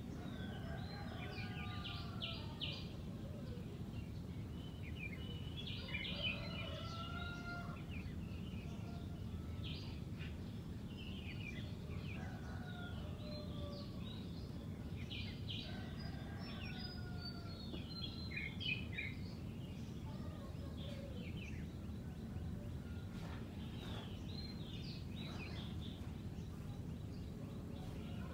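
Red-whiskered bulbul singing: short, clear warbling phrases with gliding notes, repeated every few seconds over a steady low background noise.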